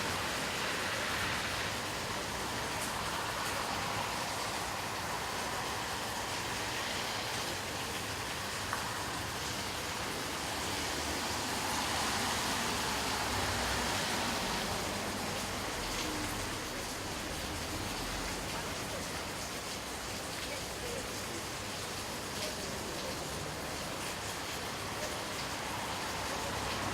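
Steady rain falling, with the hiss of cars passing on a wet road.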